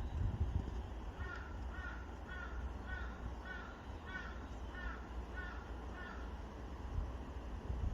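A crow cawing in a quick series of about ten short calls, roughly two a second, which stop after about five seconds. A steady low rumble runs underneath.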